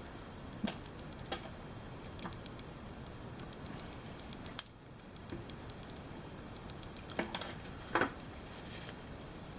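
Sporadic sharp little clicks and pops, about a dozen at uneven intervals over a faint steady hiss, while a 3D pen works PETG plastic on a printed part. The maker puts the popping down to moisture that the PETG has absorbed.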